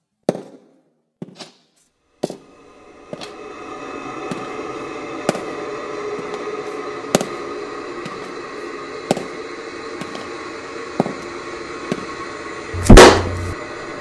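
A swelling suspense drone under sharp clicks about once a second, ending in a loud, heavy thud near the end.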